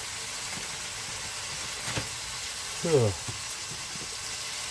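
Food frying in a pan with a steady sizzle. A short knock about two seconds in, then a brief squeak that falls in pitch just before three seconds, the loudest sound.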